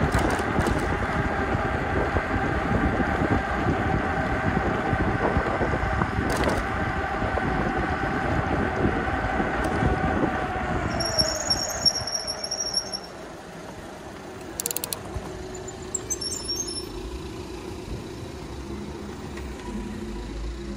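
Electric bike ridden in the rain: a loud rush of wind and wet-road noise with a steady whine. A little past halfway the whine drops in pitch as the bike slows to a stop, and everything becomes much quieter.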